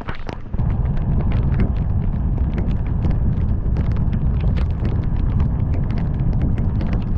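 Heavy rain: irregular drops ticking sharply on the car and camera over a loud, steady low rumble of wind and tyres while driving. The rumble dips briefly at the start and comes back about half a second in.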